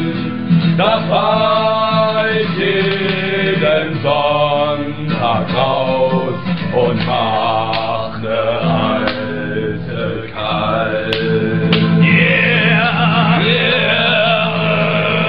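Male voices singing together without clear words over a steady low drone. Near the end, a high voice slides up and down above the rest.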